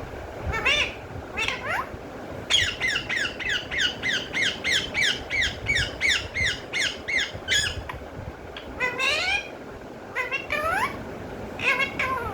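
Pet parrot calling: a couple of squawks, then a fast run of repeated falling chirps, about four a second for some five seconds, followed by a few rising squawks near the end.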